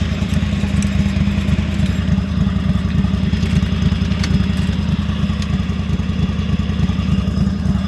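Riding lawn mower's small engine running steadily at idle, exhausting through a pipe and muffler taken off a truck. It fires as a rapid, even low putter with no change in speed.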